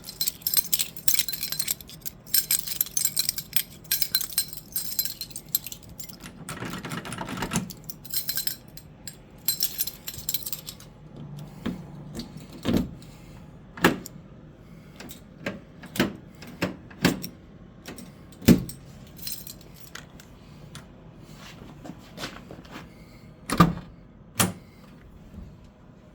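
A bunch of keys jangling for about the first eleven seconds, then a string of separate sharp clicks and knocks.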